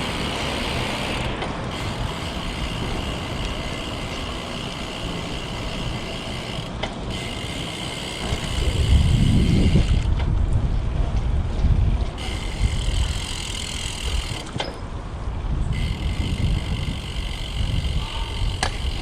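Road bike riding: wind and tyre noise with a steady high ratcheting buzz from the rear freehub while coasting, which drops out several times as pedalling resumes. A heavier low rumble of wind or passing traffic swells about nine seconds in and again near sixteen seconds.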